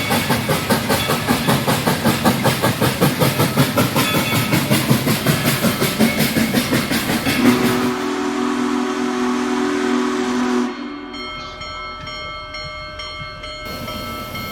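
Coal-fired 2-8-2 Mikado steam locomotive No. 70 working, its exhaust beating fast and evenly, about four or five beats a second. About seven seconds in, its chime steam whistle sounds a low chord for about three seconds, followed by fainter steady higher tones.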